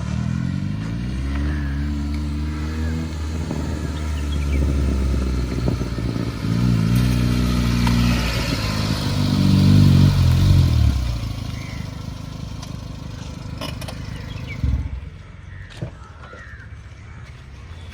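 Maruti Suzuki Esteem's 1.3-litre four-cylinder petrol engine, with a lightly tuned exhaust, accelerating. The exhaust note rises in pitch twice, once for the first few seconds and again midway, then fades away.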